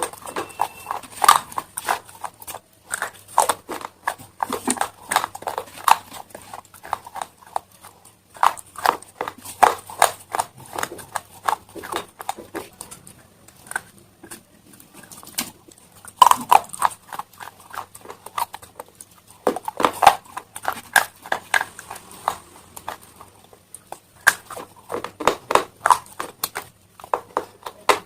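Close-miked chewing of crunchy slate stone pieces: dense runs of crisp cracking crunches, broken by a few brief pauses.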